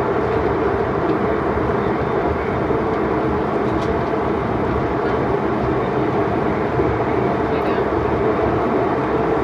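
Steady airliner cabin noise: jet engine and airflow roar heard from inside the passenger cabin, even and unbroken.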